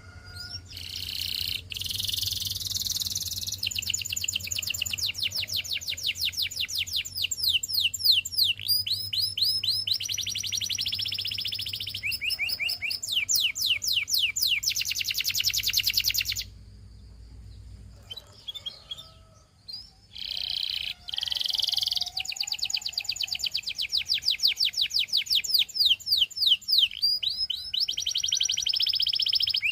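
Canary singing long, fast trills of rapidly repeated notes. The song breaks off for a few seconds past the middle, then starts again.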